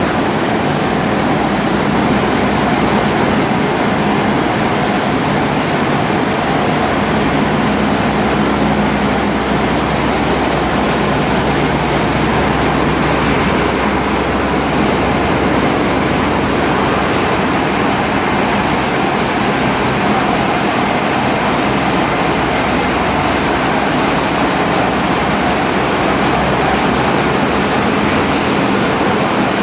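Machinery in a bulk carrier's engine room running: a loud, unbroken roar with a steady low hum underneath.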